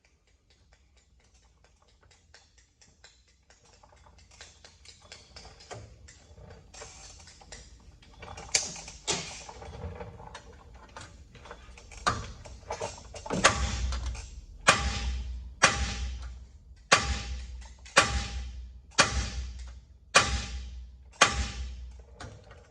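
Hammer blows on steel, struck steadily about once a second, each with a short metallic ring. Before them come scattered lighter taps and clicks of parts being handled.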